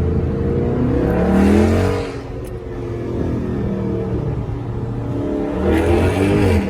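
Dodge 392 HEMI V8 exhaust revved twice, each rev rising and falling over about a second, with the engine idling in between; the sound cuts off abruptly at the end.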